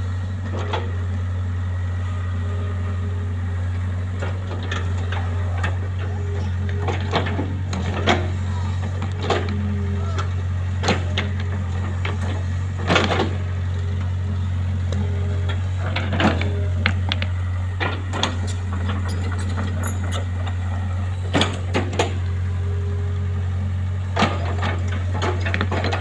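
An engine-driven machine running at a steady, even speed with a deep hum. Sharp knocks and clanks come at irregular intervals, roughly one every second or two.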